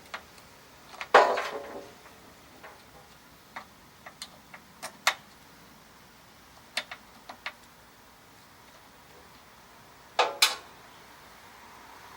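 Hand tools and small metal parts clicking and clanking as a snowblower engine is taken apart: one loud ringing clank about a second in, scattered light clicks and taps through the middle, and two more clanks near the end.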